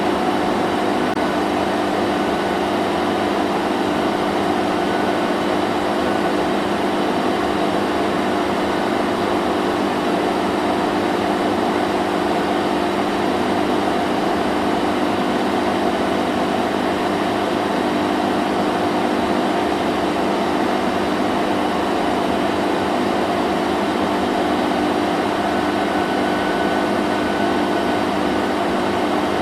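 Vacuum cleaner running continuously: a loud, steady motor drone with a low hum and airy hiss that does not change.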